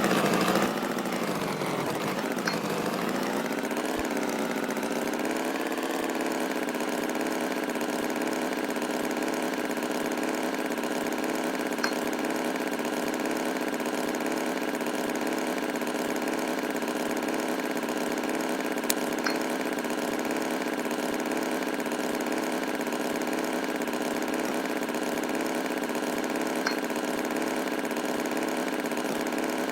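Tractor engine idling steadily, its pitch wavering and dipping for the first few seconds before settling into an even hum, with a few faint clicks.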